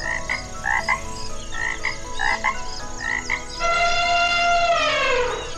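Frog croaking in short calls repeated about twice a second. About three and a half seconds in, an elephant gives one long pitched call that holds steady and then falls in pitch toward the end.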